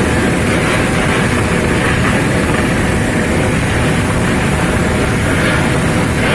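Steady, loud vehicle engine noise mixed with rushing air, without any break.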